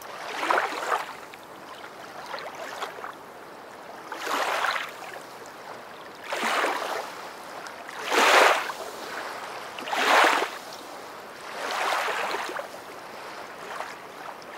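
Water washing in swells, rising and falling roughly every two seconds over a steady low wash, like small waves lapping.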